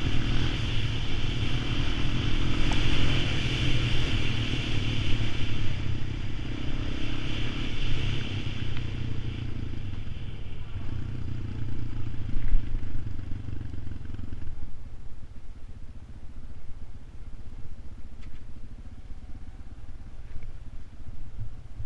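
ATV engine running steadily, then easing off about two-thirds of the way through.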